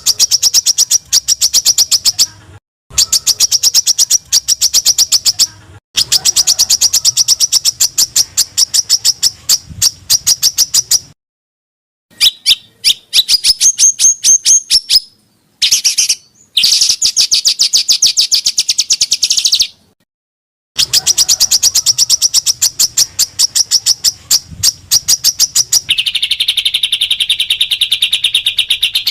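Small songbirds giving rapid-fire strings of sharp, high chirps, the dense repeated 'tembakan' calls used as masteran for training cage birds. The recordings are spliced together, so the calling stops dead in short silent gaps several times. Near the end a lower, continuous buzzy trill takes over.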